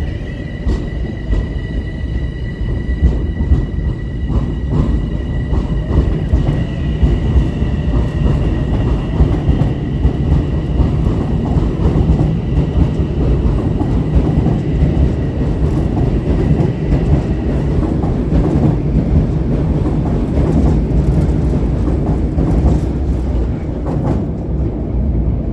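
Metro-North commuter train running through the station with a steady, loud rumble and clicks from the wheels on the rails. A high steady whine sounds over it and fades out about two-thirds of the way through.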